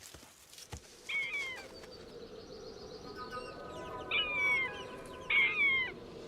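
Birds chirping: three short runs of quick, falling chirps about a second, four and five seconds in, with fainter high chirps in between, over a low steady hum.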